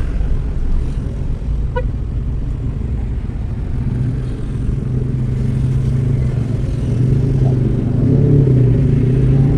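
Motor vehicle engine and road noise, a steady low drone that grows stronger after about halfway, with a brief high tone about two seconds in.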